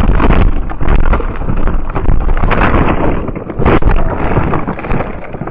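Loud, rough noise of wind buffeting the microphone over vehicle noise, broken by a few sharp knocks about half a second, two and a half and three and a half seconds in.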